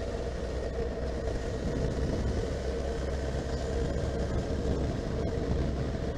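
Honda CB1300SF's inline-four engine running at a steady cruise, with the steady rush of wind and road noise of riding.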